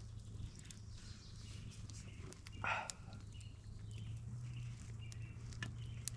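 Campfire crackling, with scattered sharp pops and one louder hissing crackle a little before the middle, over a steady low hum.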